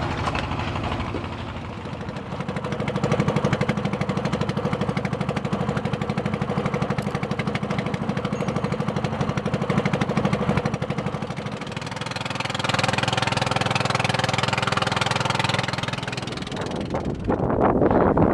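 Small fishing boat's engine running steadily with a fast even pulse, its loudness rising and falling a little. About 17 seconds in, wind rushing on the microphone grows loud.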